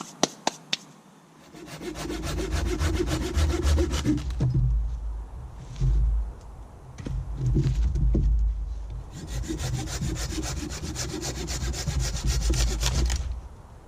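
Hand saw cutting through a piece of dead wood in two spells of quick, even strokes, the first about two seconds in and the second from about nine seconds in until near the end. A few sharp clicks come in the first second.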